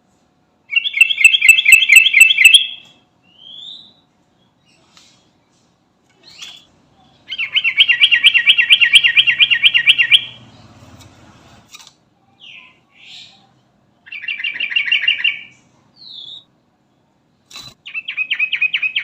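Yellow-vented bulbul (trucukan) calling: three loud chattering rattles of quick repeated notes, each about two to three seconds long, with short single notes between them and a fourth rattle starting near the end. It is the bird's lively 'garuda' call, the kind of call that draws other trucukan in.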